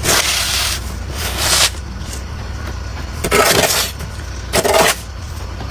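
A vehicle's steady low rumble with repeated hissing swishes, each lasting half a second to a second and a half.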